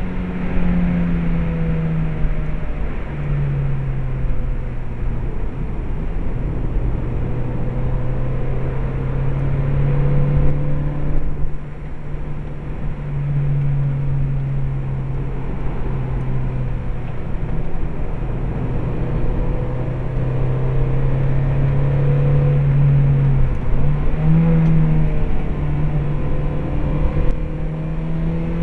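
Stock Mazda MX-5 1.8-litre four-cylinder engine heard from inside the cabin, pulling under load with the revs climbing slowly and falling back a few times as it shifts gear. A steady rush of tyre and road noise runs underneath.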